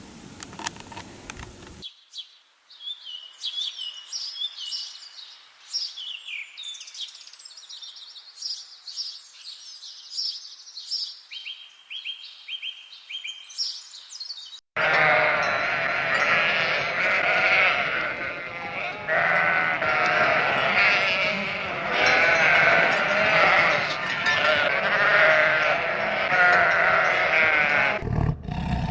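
Animal calls: high, thin chirps for about thirteen seconds, then, about halfway through, a sudden switch to a loud, dense chorus of many animals calling at once.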